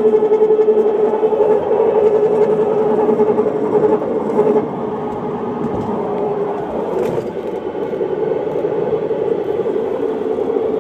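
Jeep differential whining with a steady tone over the rumble of the moving vehicle, the sign of a faulty differential. The whine fades and the sound drops a little about halfway through, while the rumble goes on.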